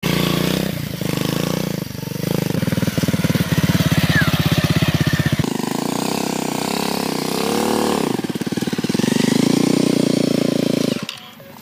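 Bajaj Pulsar 150's single-cylinder engine running as the motorcycle is ridden, with a rapid, even exhaust pulse. The engine revs up and back down about eight seconds in, and the sound cuts off about eleven seconds in.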